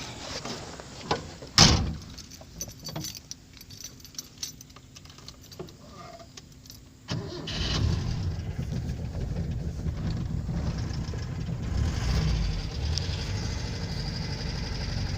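1974 Toyota Starlet's 1000cc engine cold-starting after a long time unused: a single sharp bang about a second and a half in, then about seven seconds in the engine catches and settles into a steady idle.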